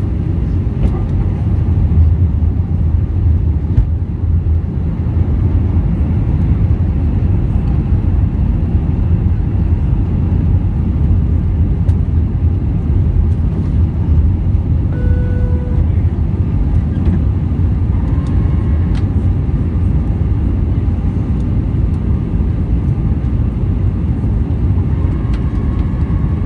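Steady low rumble of engine and airflow noise inside an Airbus A320's passenger cabin. A brief single tone sounds about fifteen seconds in.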